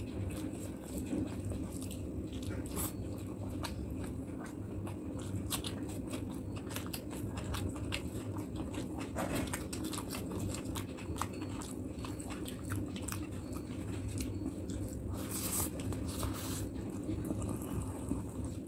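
Close-miked mouth sounds of a man chewing a big handful of rice and curry: wet smacks and quick clicks of the lips and tongue, with a couple of louder wet smacks about three-quarters of the way through. A steady low hum lies underneath.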